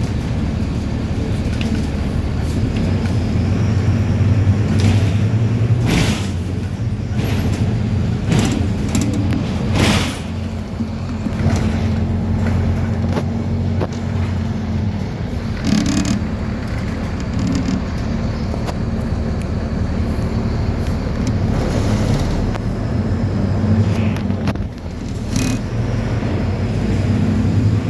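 Mercedes-Benz 1724L bus's diesel engine running under way, with a steady low drone whose pitch shifts several times. A handful of sharp knocks and rattles break in, the clearest about six, ten, sixteen and twenty-five seconds in.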